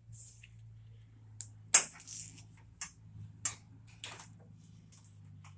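Tape pulled off a roll in several short rips, the loudest just under two seconds in, over a steady low hum.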